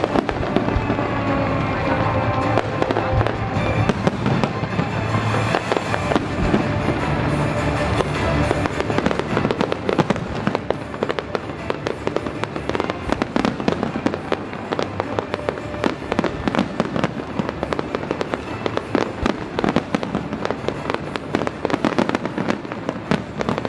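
Aerial firework shells bursting in rapid, overlapping bangs, turning into dense crackling from about a third of the way in, with music playing underneath.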